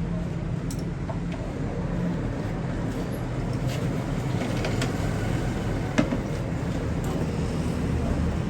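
A steady low motor drone, like an engine running, with a few short clicks over it, the clearest about six seconds in.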